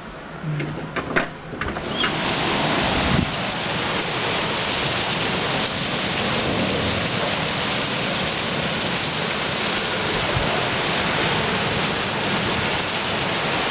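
A few sharp clicks and knocks, then a heavy rain downpour comes in loud about two seconds in and pours down steadily.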